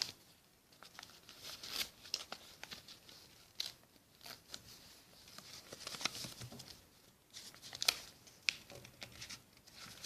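A sheet of notepad paper being folded and creased by hand, with irregular rustles and short crisp crinkles.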